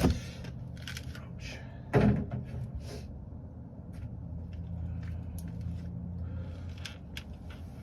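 Two sharp knocks about two seconds apart, then light scattered clicks and rattles of parts being handled over a low steady hum.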